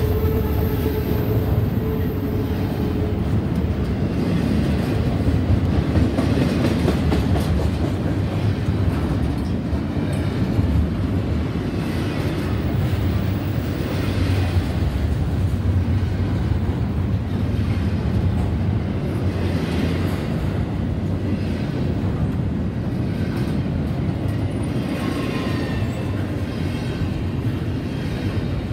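Double-stack intermodal container train passing close by: a steady rumble of steel wheels on rail with rhythmic clickety-clack. A steady wheel squeal fades out about three seconds in.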